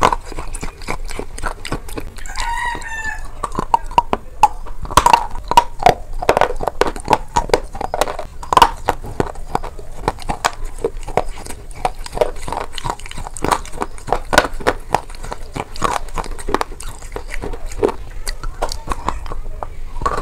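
Close-miked chewing and biting of dry, brittle food: dense, irregular crunches and crackles throughout. A brief pitched animal call sounds in the background about two seconds in.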